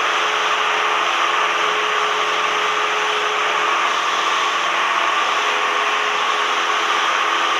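Steady engine and propeller drone heard inside the cabin of a Cessna 172M, its four-cylinder Lycoming engine running at a constant setting.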